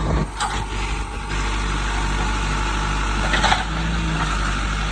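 Diesel engine of a piece of land-clearing machinery running steadily, with a couple of short sharp knocks, one near the start and one about three and a half seconds in.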